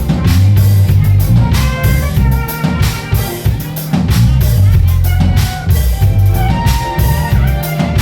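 Band music with a steady drum-kit beat, a heavy bass line and held melody notes.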